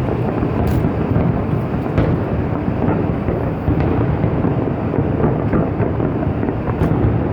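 Fireworks: many aerial shells bursting in quick succession, their booms blending into a continuous rumble, with a few faint sharp cracks.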